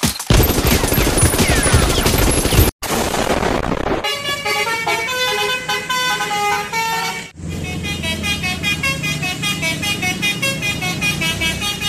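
A 'telolet' basuri multi-tone bus horn plays a melody in clear stepped notes from about four seconds in, with a short break partway through. Before it comes a few seconds of loud, noisy rumble.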